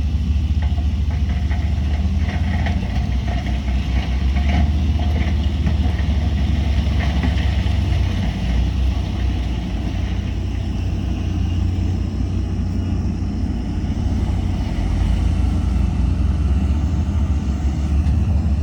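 Heavy diesel earthmoving machinery running steadily with a deep engine drone, with irregular higher-pitched clatter through roughly the first half.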